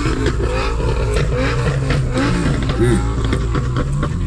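Chevrolet C8 Corvette Z06's flat-plane-crank V8 through an aftermarket exhaust, revving with its pitch rising and falling, and sharp exhaust pops scattered through it.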